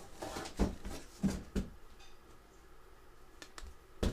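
Sharp clicks and knocks of hard parts of an oil-filled heater radiator being handled during assembly: three in the first couple of seconds, faint ticks after, and another knock at the very end.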